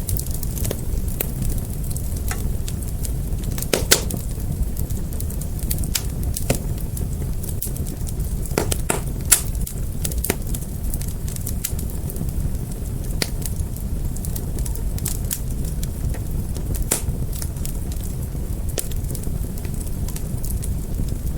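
Fire crackling and popping steadily over a low, continuous rumble, with sharp pops scattered throughout; two louder pops come about 4 and 9 seconds in.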